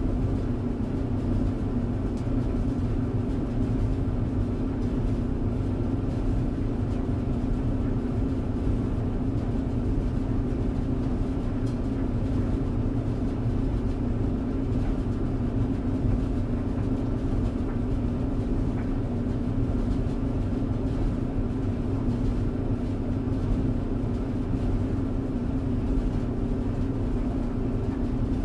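Clothes tumble dryer running, a steady low hum and rumble from its motor and turning drum.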